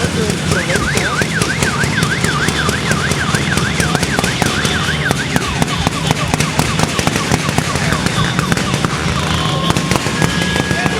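A siren-like warbling wail, rising and falling about three times a second, sounds for about five seconds over a rapid crackle of firecracker bangs, with a steady low hum underneath.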